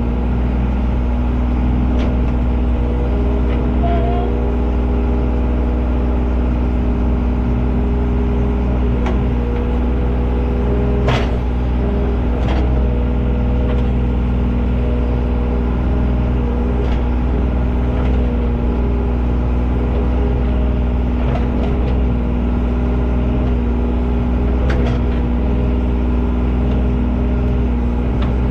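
A large engine running steadily at a constant speed, with a few sharp clanks, the loudest about eleven seconds in.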